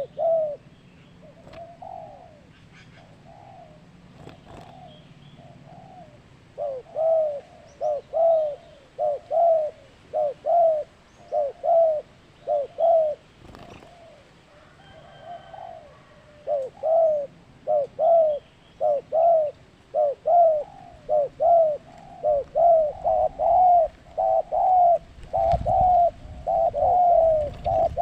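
Zebra dove (perkutut) cooing: a long series of short, arched coos at about one to two a second. It thins out twice and comes quicker and denser toward the end. A low thump sounds near the end.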